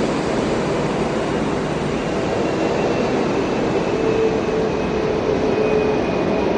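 Jet airliner engines running steadily: an even roar with a faint whine, and a lower steady tone coming in about four seconds in.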